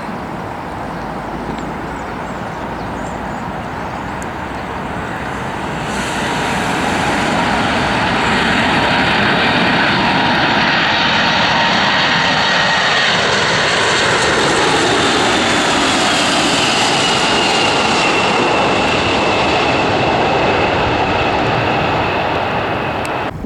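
Cargo aircraft's engines roaring as it passes close by: the sound swells about six seconds in, and a whine falls in pitch as the aircraft goes past.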